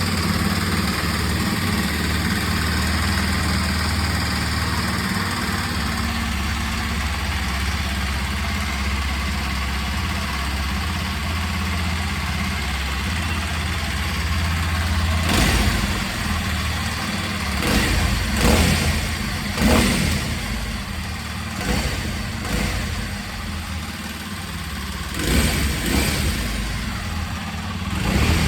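Kawasaki KLX 230's air-cooled single-cylinder four-stroke engine idling steadily, then revved in a series of short throttle blips in the second half.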